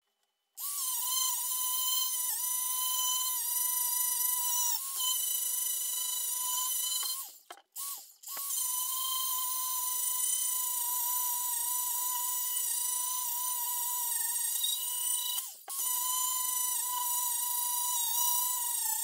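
A small high-speed electric power tool runs with a steady whine. Its pitch sags a little now and then as it is worked against the part. It stops briefly about seven seconds in and again about two-thirds of the way through, then starts again.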